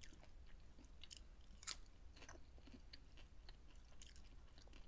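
Faint chewing and crunching of popcorn, with scattered small crackles and one louder crunch a little under two seconds in.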